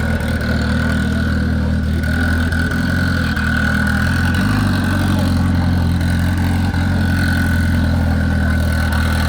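Car engine idling steadily, with a thin steady whine above the low engine note.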